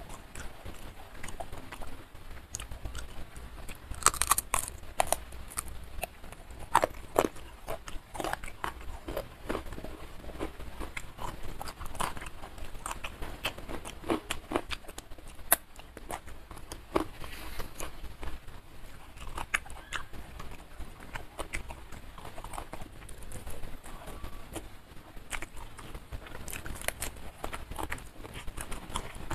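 Close-miked chewing of a mouthful of rice and fried grouper eaten by hand, with many short irregular mouth clicks.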